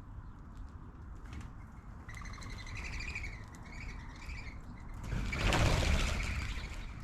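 Small birds calling in a short chattering series of notes for a few seconds. About five seconds in, a loud rushing whoosh swells and fades over nearly two seconds.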